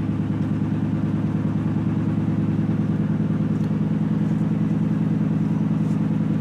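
Ford 5.4-litre Triton V8 idling steadily with an even low pulse, just started after sitting unused for a long while.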